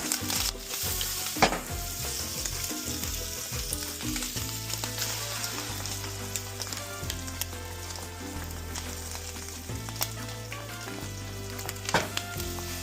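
Food sizzling as it fries in a pan, with stirring and a few sharp knocks of a utensil, one about a second and a half in and one near the end.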